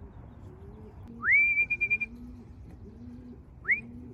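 Two rising whistles, the first levelling off into a warbling note held for about a second, the second short, over pigeons cooing softly in the loft.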